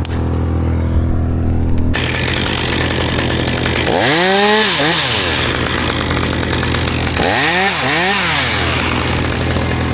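Two-stroke chainsaw, first a steady low hum, then running hard from about two seconds in, its pitch swinging up and back down twice, about four and seven seconds in.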